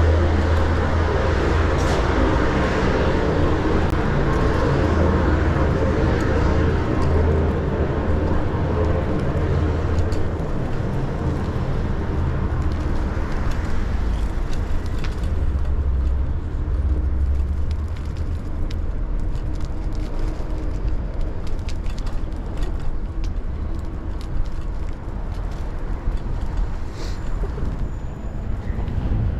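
Road traffic with a deep, steady engine rumble close by that eases off a little over halfway through, leaving a lighter traffic hum with a few faint clicks.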